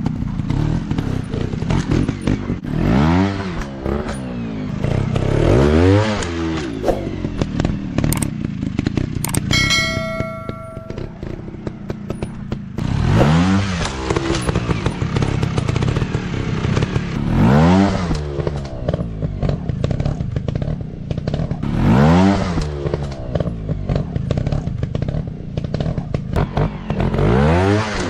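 Dirt bike engines running and being revved repeatedly, each rev rising and falling in pitch every few seconds. A steady high tone sounds for about two seconds around ten seconds in.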